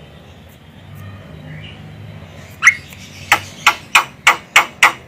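Javan myna giving a run of about seven short, sharp calls that come quicker toward the end, after a pause of about two and a half seconds. This is the call used to lure the bird in for trapping.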